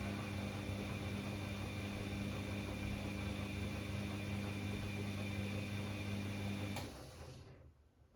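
Bosch Classixx 6 washing machine's drum motor running with a steady hum and whine during the 90 °C cottons wash. A click comes near the end as the motor switches off, and the sound dies away to near silence as the drum stops for its pause between tumbles.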